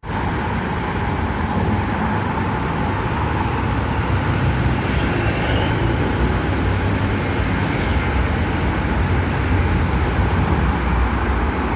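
Steady running noise of an MRT Blue Line metro train heard from inside the carriage: a continuous low rumble with a hiss over it.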